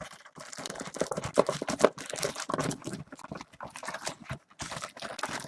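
Crinkling and rustling of a trading-card box and its wrapped packs being handled and taken out, with many small clicks and taps.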